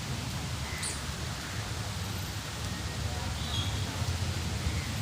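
Steady drizzle of rain falling on trees and leaves, an even hiss with a low rumble beneath and a few faint short chirps.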